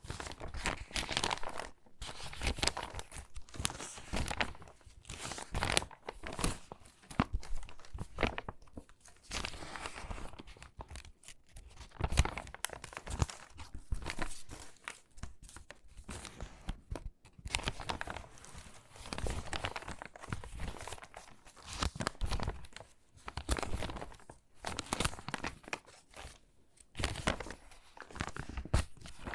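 Crinkly, water-damaged magazine pages being handled and sorted: stiff paper rustling and crackling in irregular bursts, each page rising and falling every second or so.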